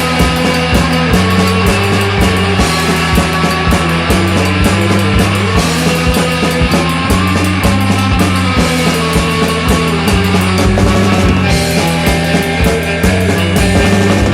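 Studio recording of a surf-punk rock band: electric guitar, bass guitar and drum kit playing together at a steady loud level.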